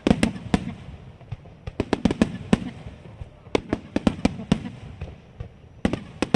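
Aerial fireworks shells bursting in quick, irregular succession: many sharp bangs, several a second, each trailing off in a low rumble.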